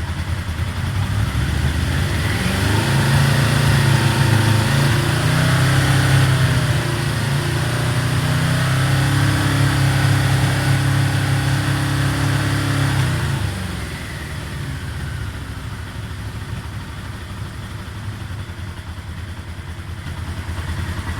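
Yamaha V-Max motorcycle's V4 engine at full operating temperature, revved up to about 4,000 rpm a couple of seconds in and held there, then dropping back to idle about 13 seconds in. A warm engine is the state in which the owner hears a knock that he suspected was low oil pressure.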